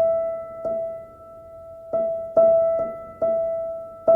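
Intro music: a keyboard repeating a single note. It is struck about six times in an uneven rhythm, and each strike rings and fades away.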